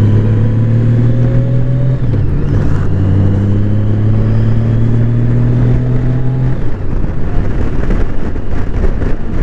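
Honda Gold Wing's flat-six engine running at road speed, heard from on the motorcycle with wind noise. The engine note climbs slowly, then changes abruptly about six and a half seconds in.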